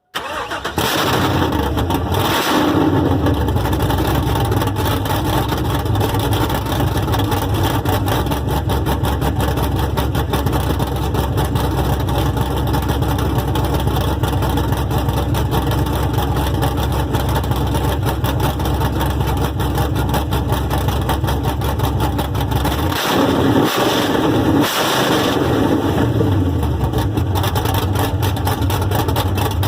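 A 2001 Camaro SS's LS1 V8, fitted with new cylinder heads and a mild cam, fires up and runs loudly on open headers with the exhaust disconnected. It settles into a choppy, pulsing idle, and its note changes briefly a few times about three-quarters of the way through.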